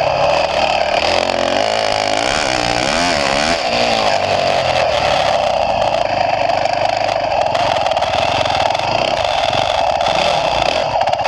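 Motocross bike engine running under way, its revs rising and falling, with the pitch wavering most between about two and four seconds in.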